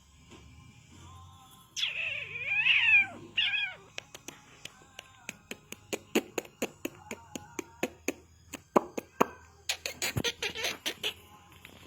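A kitten meows, one long call with its pitch bending up and down followed by a short second call, then a run of sharp clicks or taps that comes thicker near the end.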